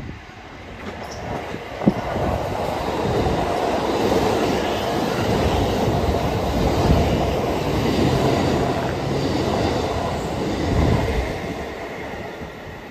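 Kintetsu 9000-series and 5200-series electric train passing along the platform, its wheels clattering over the rail joints. The rumble builds over the first couple of seconds, stays loud through the middle and dies away near the end.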